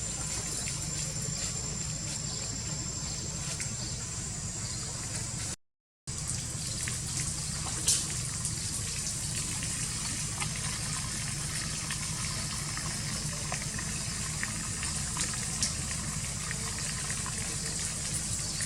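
A steady rushing noise, like running water, with a few small clicks scattered through it. It cuts out completely for about half a second a third of the way in.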